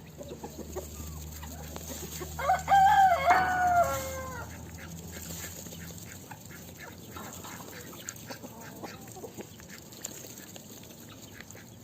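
A rooster crows once, starting about two and a half seconds in, and the call falls in pitch at the end; fainter clucking follows later.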